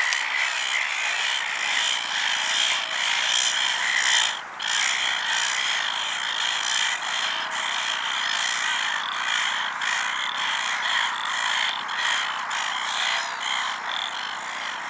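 Dense, steady chorus of frogs calling in a wetland, many voices overlapping into a continuous trilling hum.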